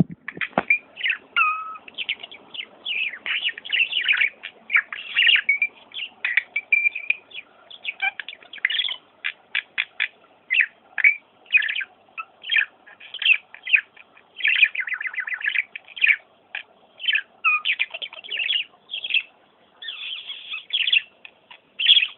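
Bird chirping and twittering: a long, uneven run of short, high chirps, several a second.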